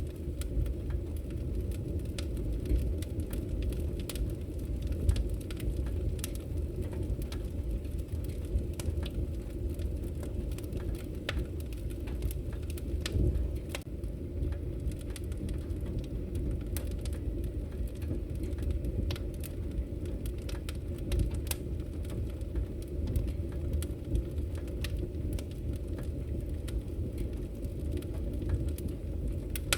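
Wood fire in a fireplace crackling: a steady low rumble of burning logs with frequent sharp pops and snaps.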